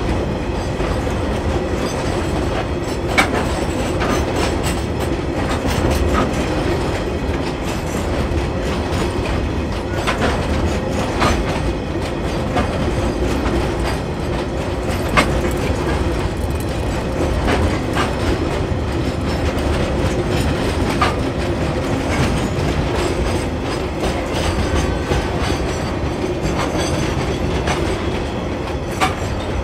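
Freight train wagons rolling past with a steady rumble, their wheels clicking sharply over rail joints every second or two.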